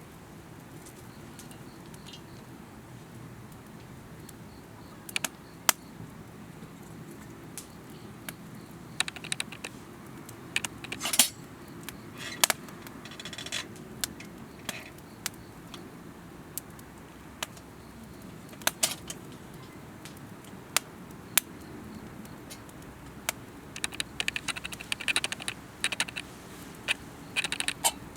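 Wood fire crackling and popping: scattered sharp pops over a low steady hiss, with denser runs of crackling about a third of the way in and again near the end.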